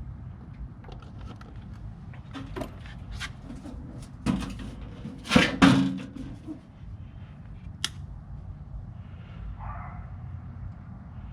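Clicks and knocks of hands working on deep-cycle battery connections. A few heavier knocks come about four to six seconds in, and a sharp click near eight seconds.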